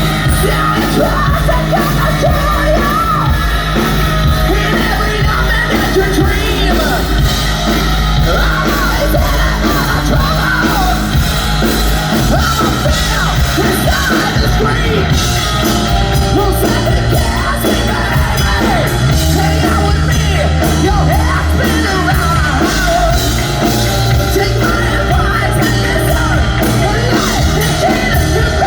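Hard rock band playing live at full volume, with distorted electric guitar, bass, drums and a lead vocalist singing. The bass line shifts notes every few seconds.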